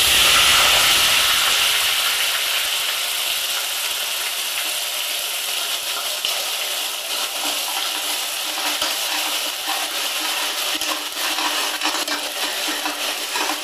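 Onion paste sizzling in hot oil in a pressure cooker, with small pops and crackles. It starts suddenly and loudly as the paste hits the oil, then eases off slowly.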